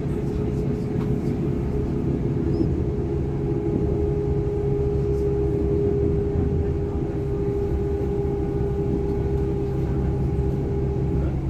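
DB Class 425 electric multiple unit running, heard from inside the coach: a low, steady rumble of wheels and running gear with a steady electric whine from the traction equipment that stops shortly before the end.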